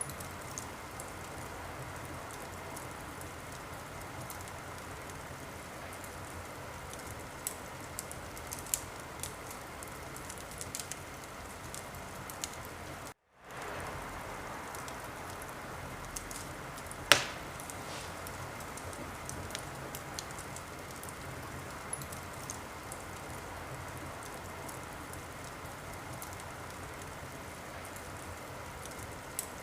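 Wood fire in a fireplace crackling: a steady hiss with scattered sharp pops and one louder snap about two-thirds of the way through. The sound cuts out completely for a moment a little before the middle.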